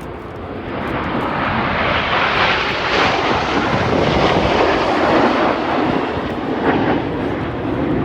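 A formation of BAE Hawk jet trainers flying past, their jet engines a rushing roar that builds over the first two seconds and stays loud.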